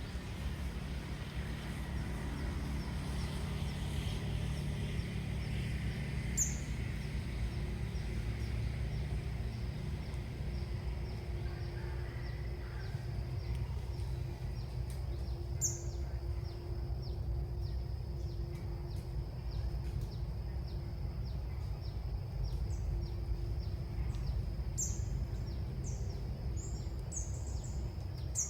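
Small bird chirping in short, very high notes: once or twice early on, then a quick run of chirps near the end, over a steady low outdoor rumble.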